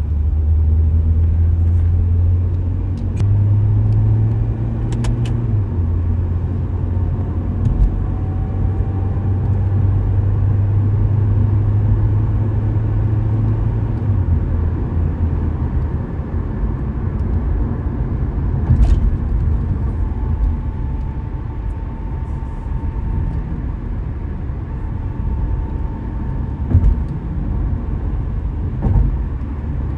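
Car driving with a steady low engine and road rumble whose pitch shifts slightly now and then, with a few short knocks.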